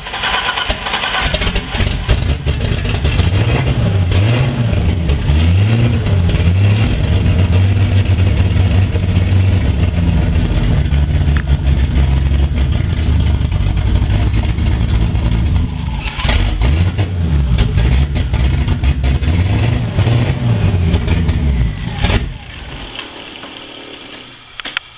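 Turbocharged BMW E30 engine catching about a second in, then held on the throttle with its revs rising and falling over and over, and dying near the end. It will not idle: it runs extremely rich on 30 lb injectors and stays running only at around 2,000 rpm.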